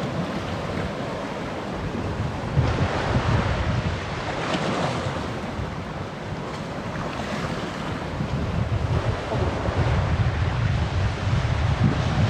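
Sea waves washing at the shore, with gusty wind buffeting the microphone; the wind rumble grows stronger near the end.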